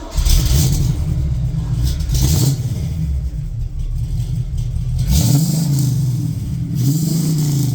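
1970 Pontiac Firebird Formula 400's 400-cubic-inch V8 firing up and running, then revved three times, each rev rising and falling in pitch.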